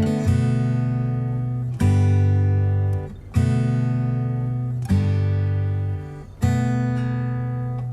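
Background music: acoustic guitar strumming chords, a new chord struck about every one and a half seconds and left to ring.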